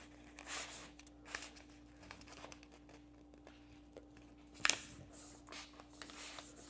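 A sheet of A4 paper being folded and creased by hand: faint rustles and a few short crinkles, the sharpest about four and a half seconds in, over a faint steady hum.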